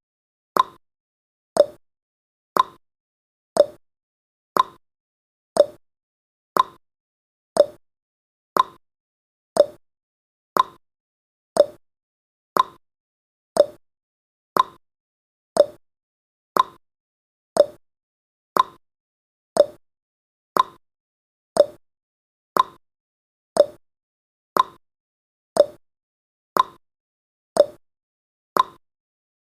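Countdown timer's ticking sound effect: one short, sharp tick each second, keeping an even rhythm.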